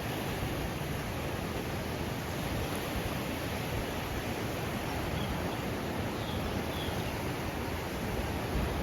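Steady rushing wash of sea surf on a beach, with a rough low rumble.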